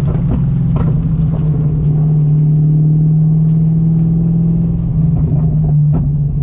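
Straight-piped BMW M60 V8 running at a steady, nearly constant engine speed under light load, a deep even drone. A few brief knocks are heard about a second in and again near the end.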